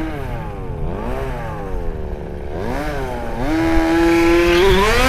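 Small two-stroke petrol engine of a 1/5-scale RC buggy revving up and down with the throttle several times. Near the end it is held high and steady for about a second at full throttle, then climbs again.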